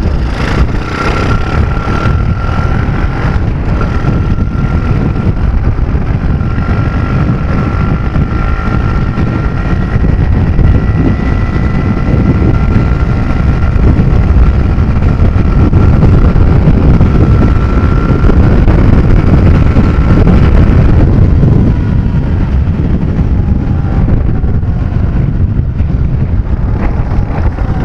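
Nitro Sky 125cc pitbike's single-cylinder four-stroke engine held at full throttle on a top-speed run, under heavy wind buffeting on the camera microphone. The engine note stays high and steady, then falls away about three-quarters of the way through as the bike backs off.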